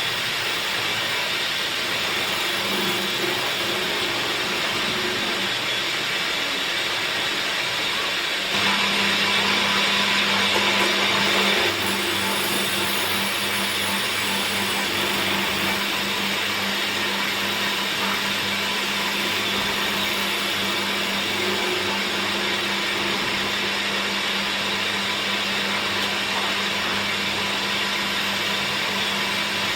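Woodworking machine running steadily, with a louder, brighter stretch from about nine to twelve seconds in.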